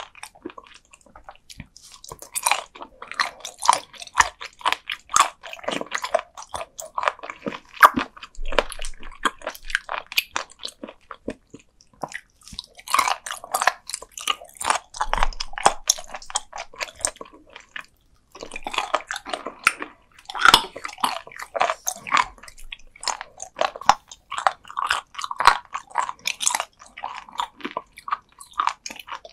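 Close-miked chewing of raw sea cucumber: firm, crunchy bites and wet chewing in rapid clicks, pausing briefly about twelve seconds in and again around eighteen seconds.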